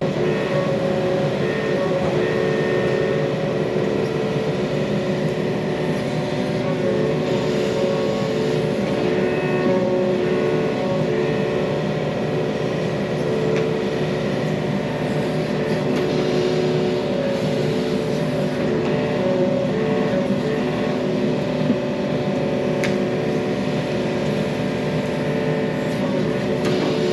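Yanmar mini excavator's diesel engine running steadily under load while digging, its steady hum over a noisy mechanical background.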